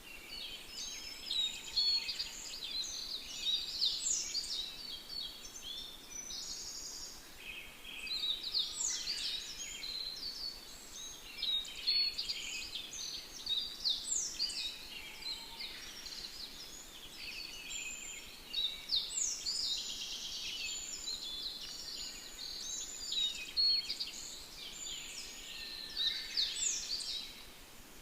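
Many birds singing together, a dense chorus of overlapping chirps, trills and quick whistled glides with no gaps.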